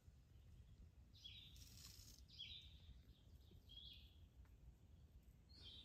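Quiet woodland with a few faint, short bird calls, one every second or so.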